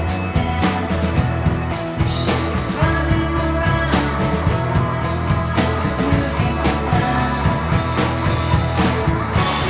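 Rock band playing, a dense wash of instruments over a steady drum beat.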